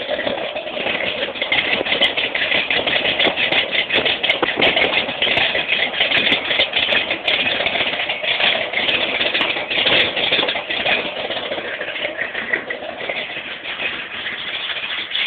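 Ford 351 Windsor V8 in a 1983 Ford F-100 pickup running, a dense, loud engine sound that swells and dips in level.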